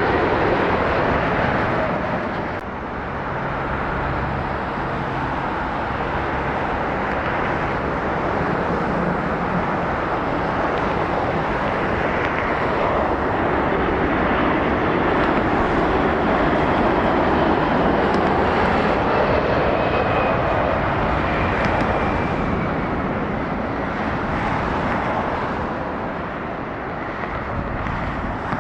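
Twin Pratt & Whitney PW4062 turbofans of a Boeing KC-46A Pegasus tanker on landing approach, a loud steady jet rush. A faint whine falls in pitch midway as the aircraft passes, and the sound eases off near the end.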